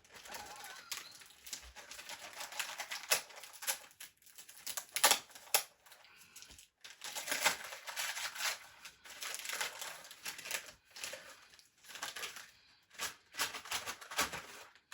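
Gift wrapping paper being torn and crumpled as a present is unwrapped: irregular rustling and crackling with sharper rips.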